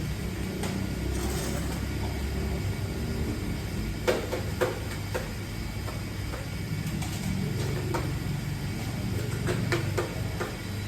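A steady low rumble with scattered sharp clicks and knocks, the loudest two about four seconds in.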